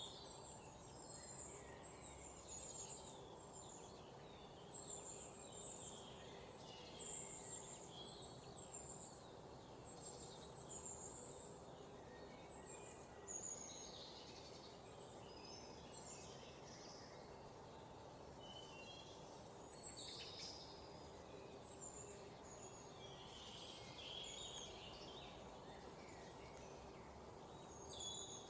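Faint chorus of small birds chirping and twittering, with short high chirps scattered throughout over a steady low background noise.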